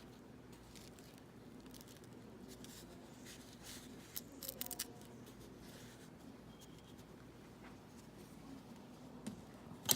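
A few quick snips of scissors about four to five seconds in, with a single click near the end, over faint room tone: a rotting leaf being cut off a mini phalaenopsis orchid.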